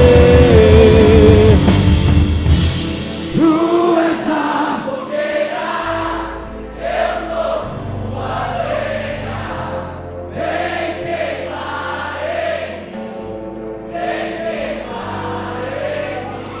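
Live worship music: the full band holds and lets ring a loud final chord for the first couple of seconds, then drops to a soft held keyboard pad with voices singing or humming freely over it.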